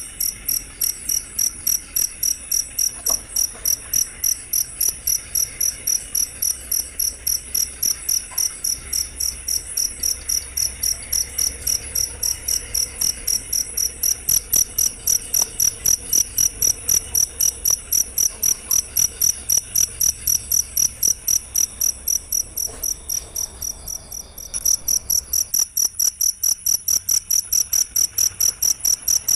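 Cricket chirping in a steady, even rhythm of about three to four high-pitched chirps a second, with a brief break about 24 seconds in before it carries on.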